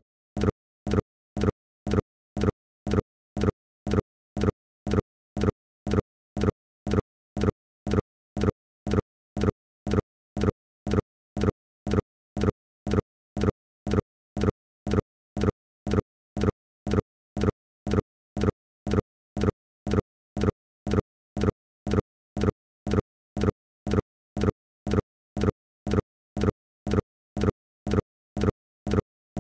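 Short, identical pulses repeating evenly about twice a second, with silence between them.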